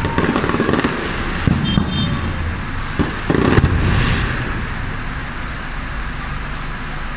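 Aerial fireworks shells bursting: a run of booms with crackle, the strongest about three and a half seconds in, settling into a steady rumble of further bursts.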